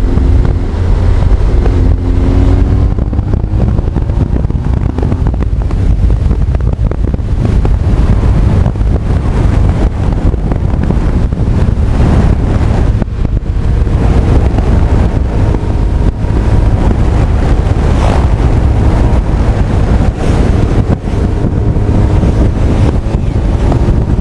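Heavy wind noise on an action camera riding on a Honda CB1300 Super Bol d'Or at speed, with the motorcycle's inline-four engine heard faintly beneath it, its pitch rising and shifting now and then.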